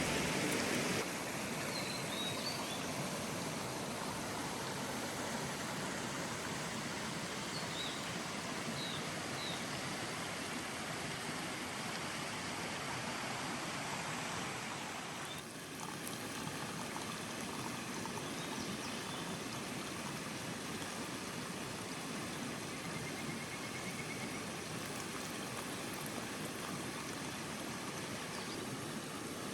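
Mountain stream rushing steadily, with a few faint high chirps in the first ten seconds.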